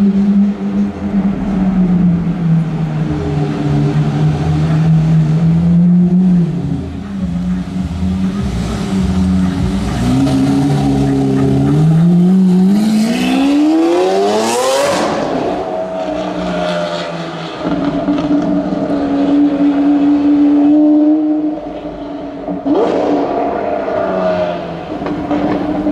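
Lamborghini Aventador's naturally aspirated V12 through a Capristo aftermarket exhaust, running at low revs, then revving in one long rising climb about halfway through, and giving a quick sharp blip near the end.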